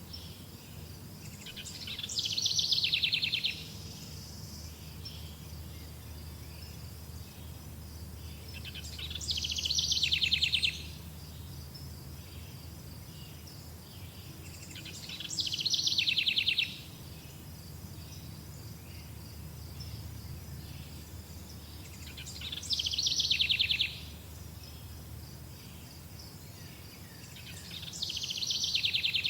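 A bird's fast trilling song repeated five times, about every six or seven seconds; each phrase swells, falls in pitch and stops abruptly. Underneath, crickets or other insects chirp steadily and high, over a low background rumble.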